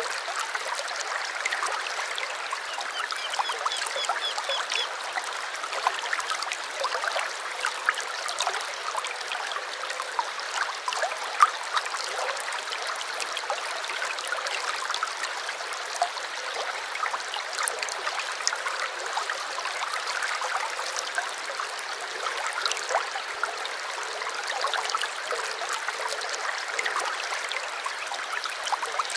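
Small stream trickling and bubbling steadily over stones, full of little splashes. A bird gives a short run of faint, high repeated chirps about three to five seconds in.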